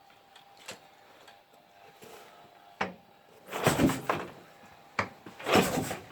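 Kick-starter of a K750M motorcycle's side-valve flat-twin engine being kicked twice, each kick a short clunking burst as the engine turns over without firing: the carburettor is dry.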